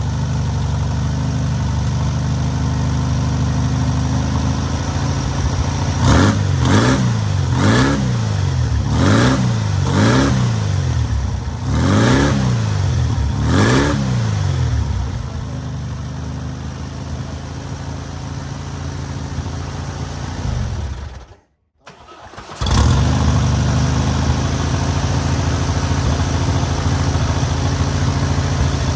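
Newly rebuilt VW 1600cc air-cooled flat-four engine running on its first break-in. It settles into a steady run, is revved about six times in quick succession, then runs steady again, with a brief gap in the sound near the end.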